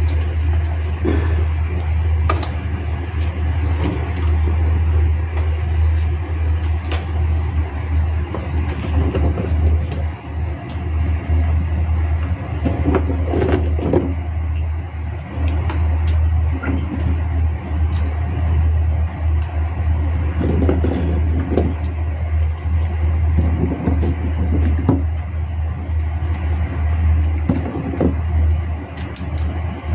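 A steady, loud low rumble runs throughout, with scattered light knocks and clatter on top.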